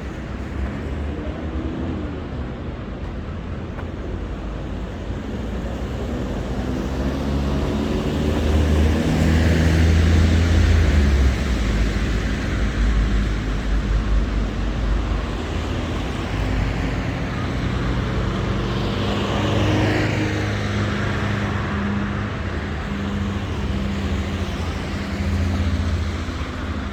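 City street traffic: motor vehicles running and passing close by, with a low engine rumble that grows loudest about ten seconds in, and another vehicle passing around twenty seconds in.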